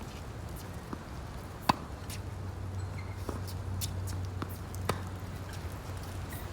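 Tennis rally: a racket strikes the ball twice, about three seconds apart, as sharp hits with fainter ticks between. Under them, wind rumbles on the microphone.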